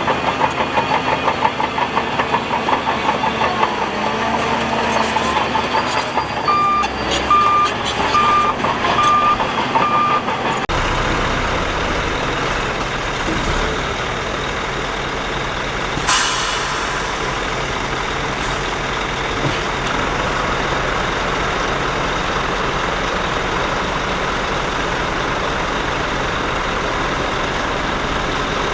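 Heavy earthmoving machinery running, with a reversing alarm beeping five times a few seconds in. After about ten seconds the sound changes to a steady engine rumble, with one short hiss around the middle.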